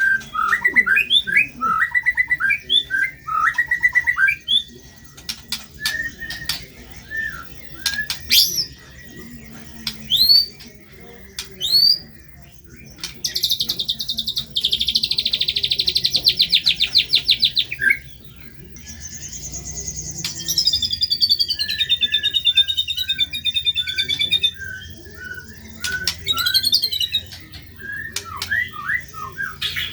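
White-rumped shama (murai batu) singing a varied song of short chirps and rising whistled sweeps. About 13 seconds in comes a long, rapid trill lasting about five seconds, followed by a falling run of chirps.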